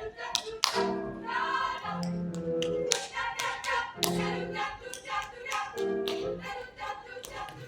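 Live music with singing, over low held notes, with sharp tapping or clapping beats throughout.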